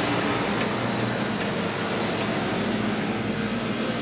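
Steady mechanical hum and hiss of a store's air handling and refrigeration. A light regular ticking, about two and a half per second, fades out about two-thirds of the way through.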